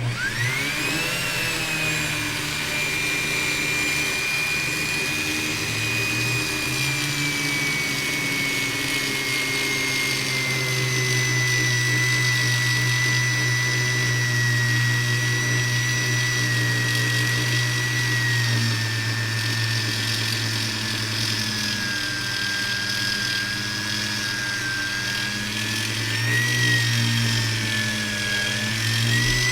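Dremel rotary tool starting up abruptly and spinning at high speed, a steady high whine that drifts slowly lower and wavers in the last few seconds.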